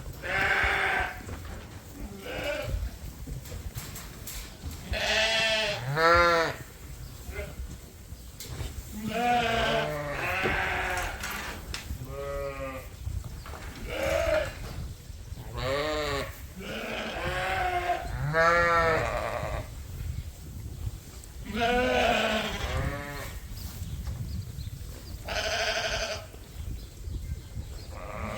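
Several sheep bleating in a pen. A dozen or so separate, quavering calls come one every second or two, some deep and some higher-pitched, a few overlapping.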